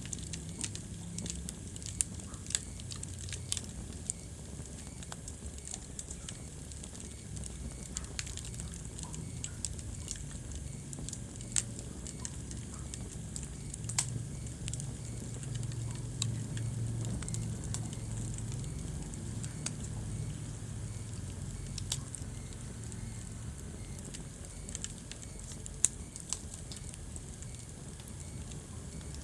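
Wood fire burning in a fireplace, crackling with sharp pops scattered irregularly over a steady low rumble of the flames.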